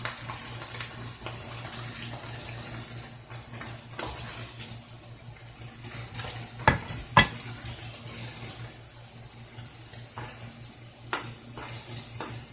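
Flour-coated chicken gizzards frying in hot oil with a steady sizzle, and a few sharp clinks of a utensil against the pan, the loudest two close together about seven seconds in.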